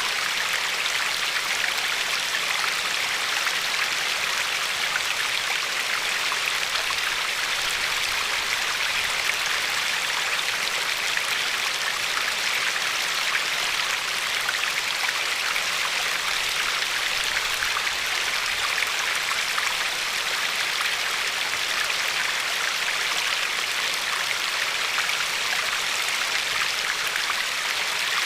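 Steady rushing and lapping of a river flowing over a pebbly shore, an even hiss-like wash of water with fine splashy detail and no change throughout.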